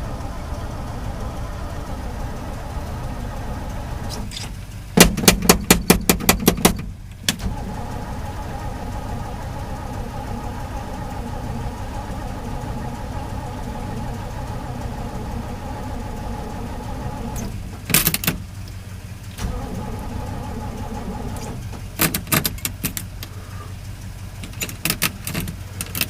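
1968 Chevy C60 dump truck's starter cranking the cold engine in a rhythmic burst of about two seconds, then several shorter bursts, without it catching, over another engine idling steadily.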